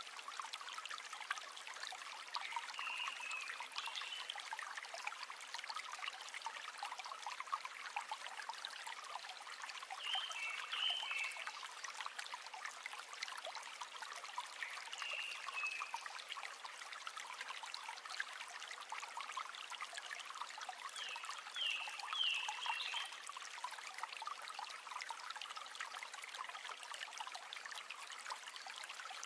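River water flowing and trickling steadily, with a few brief high chirps now and then over the flow.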